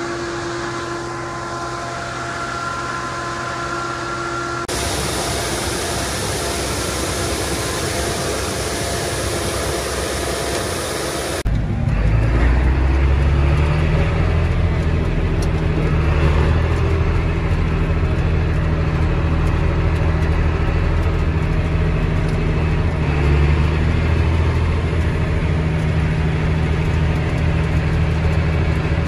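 Heavy diesel engine of farm machinery running steadily, with abrupt changes about 5 and 11 seconds in. From about 11 seconds in the engine is louder, with a deep, steady note.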